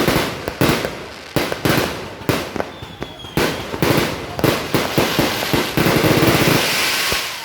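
Aerial fireworks going off in quick succession: repeated sharp bangs, several a second, merging into a dense crackling barrage in the second half.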